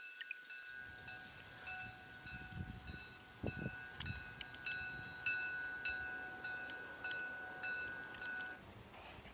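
Railway level-crossing warning bell ringing in quick, evenly repeated strokes, about two or three a second, with a steady high tone that stops near the end and a low rumble beneath.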